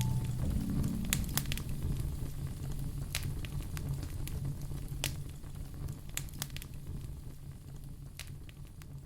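Wood fire in a fireplace crackling, with scattered sharp pops and snaps over a low steady rumble, fading out gradually.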